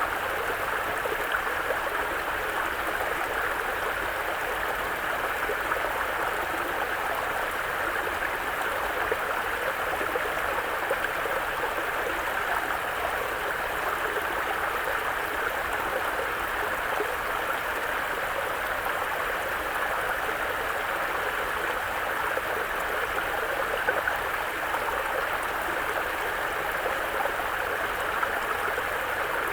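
Mountain brook running over rocks: a steady babble of flowing water.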